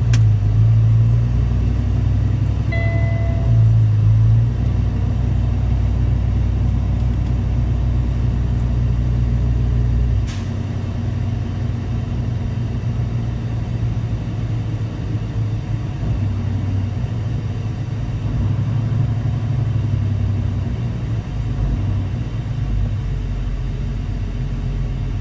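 Semi truck's diesel engine running steadily as it drives at low speed. There is a brief tone about three seconds in and a single click about ten seconds in, after which the deepest part of the drone drops.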